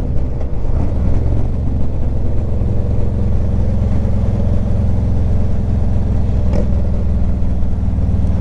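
Harley-Davidson touring motorcycle's V-twin engine running steadily while riding, a low, even drone.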